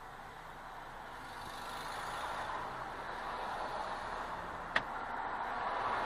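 Road traffic noise: a steady hiss of vehicles on the road that grows a little louder, with one sharp click just under five seconds in.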